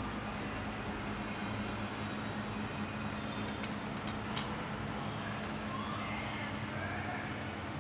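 Steady mechanical hum with a constant low tone, with one sharp click about four and a half seconds in.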